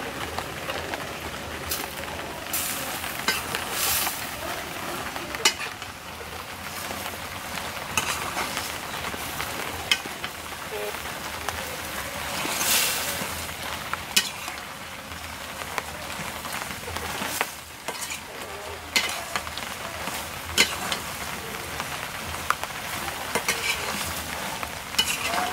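Taro greens with hilsa fish head sizzling as they fry in a metal wok, while a metal spatula stirs and scrapes against the pan in sharp strokes every second or two.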